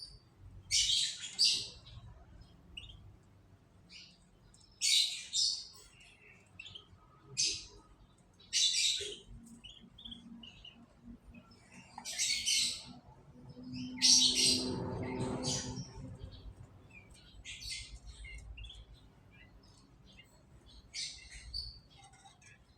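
Canaries giving short, high chirps, one every second or two with gaps between them.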